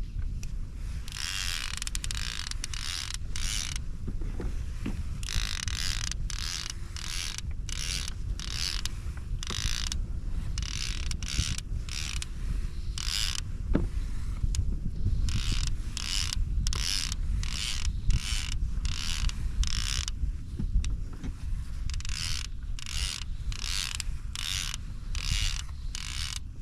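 Rhythmic mechanical creak-and-whirr from gear on a fishing kayak, in strokes about twice a second, pausing briefly around two-thirds of the way through.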